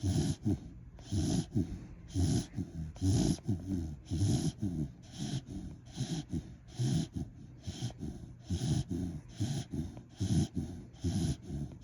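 Sleeping corgi snoring in a steady rhythm: a snore about once a second, with softer breaths in between.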